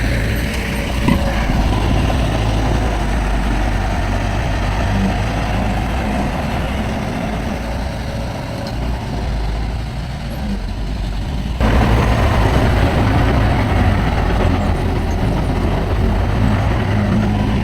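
Heavy diesel engine of earthmoving machinery running steadily. About two-thirds of the way through, the sound jumps abruptly louder.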